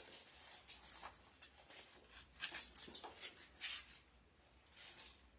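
Faint rustling of paper, several short soft brushes, as of Bible pages being turned to find a passage.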